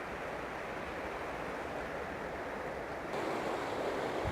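Steady rushing of a river's flowing water, a little louder from about three seconds in.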